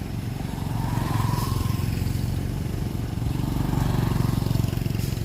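Heavy diesel engine of earthmoving machinery running with a rapid low pulsing rumble, swelling under load about a second in and again near four seconds.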